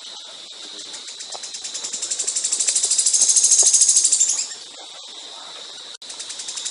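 Songbird singing a long, rapid, high-pitched pulsed trill. The trill swells to loud, drops away about four and a half seconds in, then builds up again near the end.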